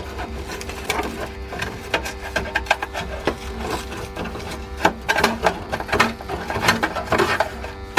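Rough scraping and rubbing with many irregular sharp taps and clicks as something is worked by hand at a gas water heater's flue, over a steady hum.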